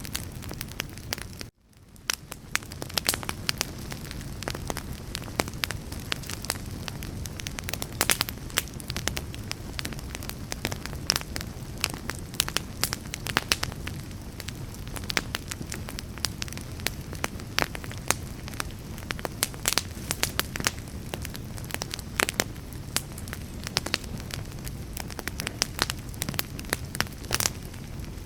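Wood fire burning, with dense crackles and pops over a steady low rumble of flames. The sound drops out briefly about a second and a half in, then fades back in.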